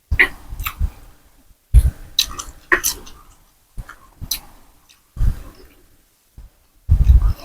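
A person eating pork boat noodle soup close to the microphone: chewing and slurping in short bursts separated by brief pauses.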